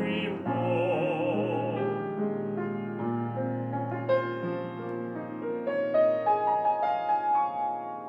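Classical art song for voice and piano: a singer holds the last word of a phrase with wide vibrato for about a second and a half, then the piano plays alone, a line of notes climbing higher through the last few seconds.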